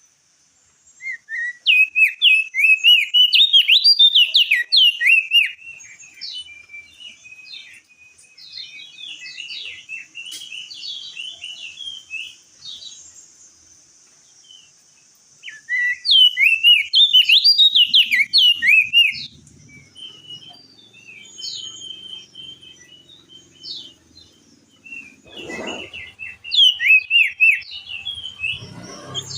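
Crested white-eye singing in fast chattering bursts of sharp rising and falling whistled notes: three loud bouts, with softer twittering between them.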